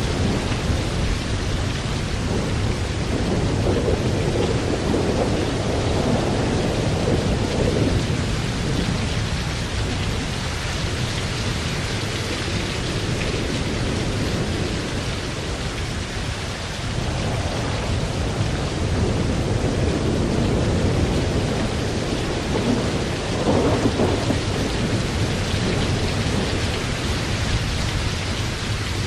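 Thunderstorm: steady heavy rain with thunder rumbling in swells that rise and fade several times, the loudest rumble near the end.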